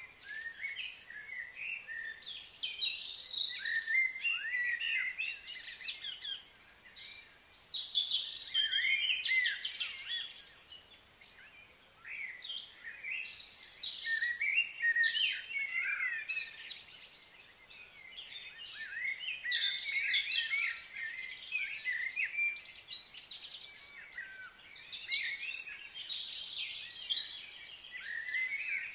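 Several birds singing and chirping over one another, in bouts of a few seconds separated by brief lulls.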